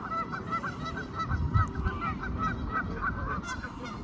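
Birds calling in a steady stream of short, repeated calls, several a second, over a low rumble.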